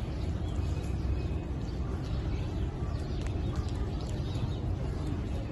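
City street ambience: a steady low rumble of traffic, with faint bird chirps over it.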